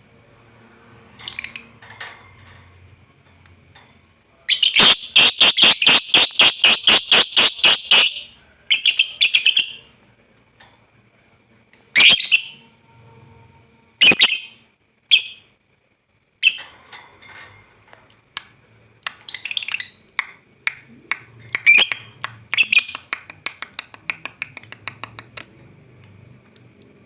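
Lovebird chattering: a run of fast, sharp repeated calls about six a second lasting some three and a half seconds, then scattered single chirps and squawks, and another quickening run near the end. These are short bursts of ngekek, the long rapid chatter of a lovebird still learning to sing it.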